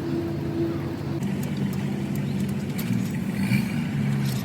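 A steady engine hum, with scattered light clicks.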